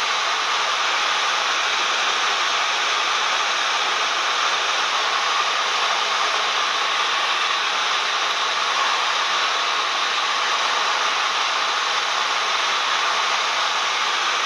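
Steady cabin noise of a Cessna 172M in flight: its Lycoming four-cylinder engine and the airflow merge into an even, unbroken hiss-like drone.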